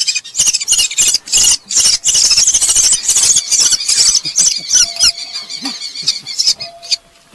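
Red-footed falcon nestlings screaming in rapid, high-pitched shrieks, dense for about five seconds then thinning out: the distress calls of chicks being handled for ringing.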